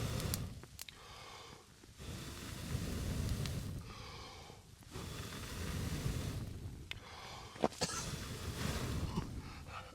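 A person blowing in long, repeated breaths on a smouldering char-cloth ember in a damp tinder bundle, coaxing it to flame. There are about four blows with short pauses between, and one sharp click near the end.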